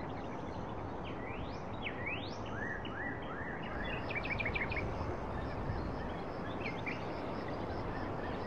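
Birds chirping over a steady background noise: a run of quick rising calls in the first few seconds, a rapid series of short notes about four seconds in, and a few more calls near the end.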